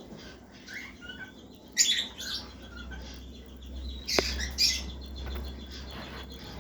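Cockatiel chicks begging to be fed, a run of rapid high raspy squeaks, louder about two seconds in and again around four seconds in.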